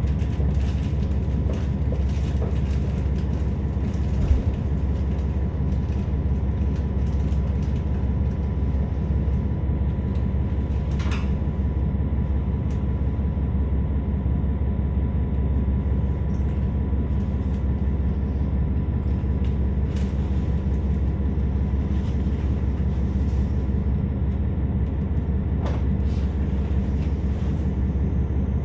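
KiHa 47 diesel railcar's engine idling steadily, heard from inside the passenger cabin while the train stands at a station, with a single sharp knock about four seconds in.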